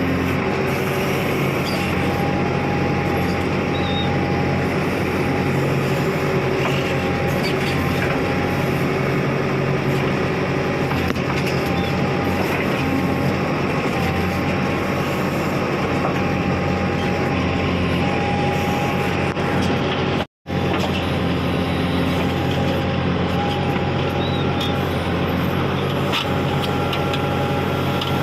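Backhoe loader's diesel engine running steadily, with a momentary dropout in the sound about twenty seconds in.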